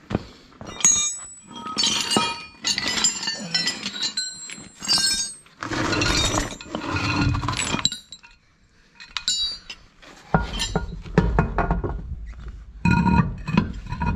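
Metal tools and parts clinking and knocking in a string of short, ringing hits, with stretches of scraping and rattling, as parts are handled and fitted on the van's front suspension.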